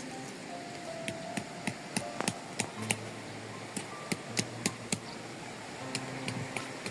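A series of sharp, irregular taps and clicks, a few a second, over faint background music.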